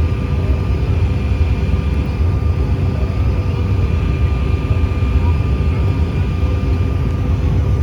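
Steady jet engine drone inside an airliner's cabin: a low rumble with a few thin, steady whining tones above it.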